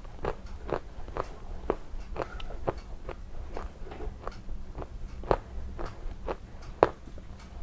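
A person chewing a piece of a crunchy white bar close to the microphone: short, crisp crunches about twice a second.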